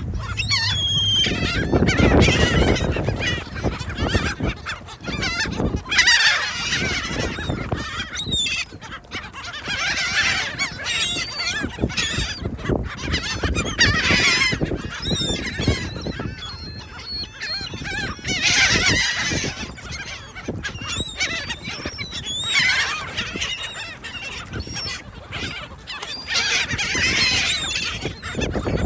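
A flock of gulls calling, many loud squawking calls overlapping and swelling into louder choruses every few seconds.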